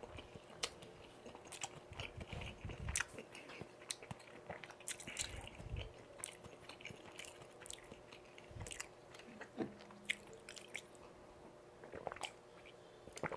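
Close-miked chewing of tteokbokki rice cakes and jeon: wet, sticky mouth clicks and smacks at irregular intervals.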